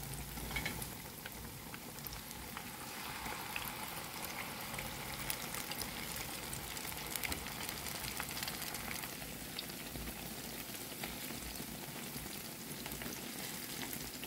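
Battered, pressed banana pieces deep-frying in hot oil in a pan: a steady sizzle with fine crackling.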